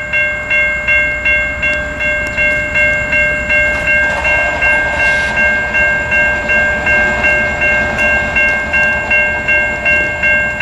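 Grade-crossing warning bell ringing, evenly at about two and a half strokes a second, over the low rumble of a passing freight train.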